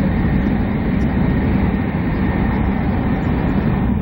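Steady running noise of a moving train heard from inside the carriage: an even low rumble of wheels on rail.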